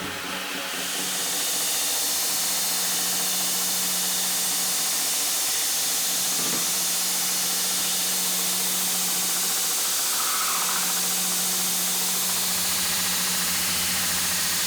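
A workshop tool running steadily: a constant hiss over an even low hum.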